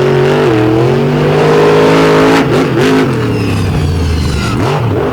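Monster truck engine revving hard during a freestyle run. Its pitch rises and falls at high revs, then drops about two and a half seconds in, where a few sharp knocks are heard, and it runs lower and less evenly after that.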